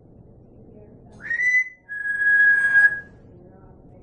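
African grey parrot whistling two notes: a short one that rises and then holds, followed at once by a longer steady note a little lower in pitch.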